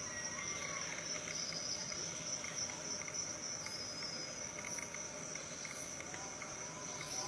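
Steady, high-pitched insect chorus, with a few faint arching bird calls beneath it.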